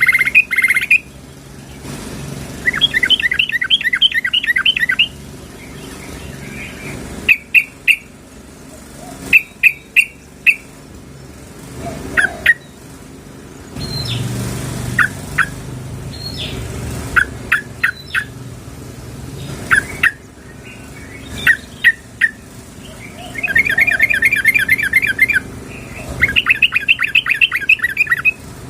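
Yellow-vented bulbul calling: bursts of rapid bubbling trills alternate with short clusters of chirps and single sharp notes, with a long trill near the end. It is the call of a female to males.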